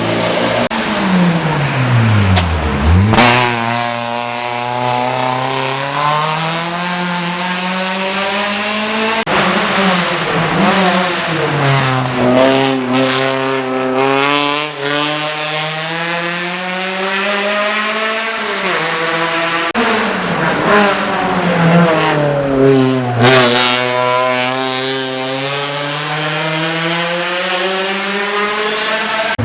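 Race car engine under hard acceleration, winding up through the gears. It slows with a falling pitch over the first few seconds, then the pitch climbs again and again and drops sharply at each upshift.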